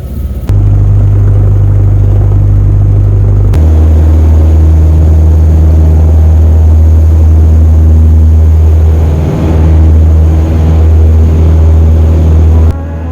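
Cessna 172 Skyhawk's piston engine and propeller droning steadily. The drone is loud and low, and it jumps abruptly in level and pitch about half a second in and again at about three and a half seconds. It drops off suddenly near the end.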